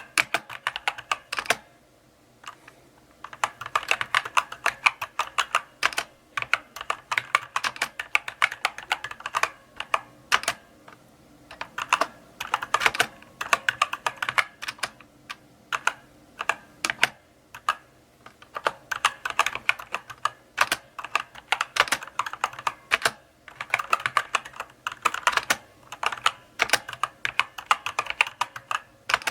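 Typing on a mechanical keyboard, sharp key clicks in runs of words with short pauses between them, a few brief gaps with no keystrokes.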